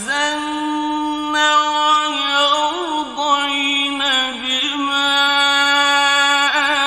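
Male Quran reciter chanting in the melodic mujawwad style, drawing out long held vowels. His pitch wavers in ornaments about a third of the way in and again near the end.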